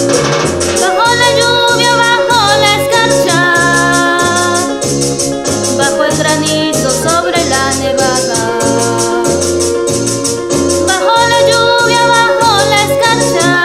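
A girl singing a worship song over an electronic keyboard playing bass notes and chords with a steady shaker beat. The voice pauses for a couple of seconds past the middle while the keyboard plays on, then comes back in.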